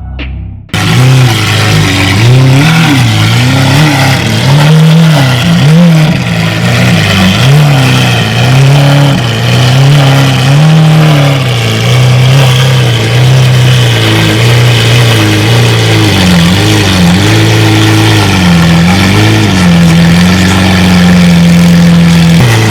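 Car engine being revved in repeated rises and falls of pitch, settling into a steady higher hold near the end. It cuts in abruptly under a second in.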